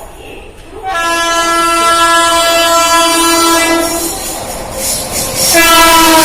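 Locomotive air horn of an Indian Railways train sounding two long blasts: the first starts about a second in and lasts some three seconds, the second starts near the end, with the rush of the passing train between them.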